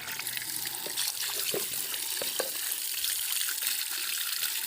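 Water streaming and splashing onto a motorcycle engine, rinsing off the shampoo and loosened crust. It starts abruptly as a steady hiss, with a few small plinks of drops in the middle.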